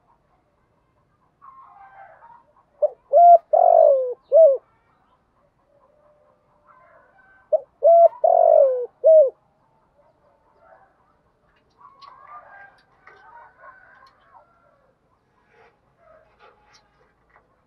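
Spotted dove cooing: two phrases of several low hooting notes each, the middle note sliding down, about four and a half seconds apart. Faint chirps of small birds sound between them.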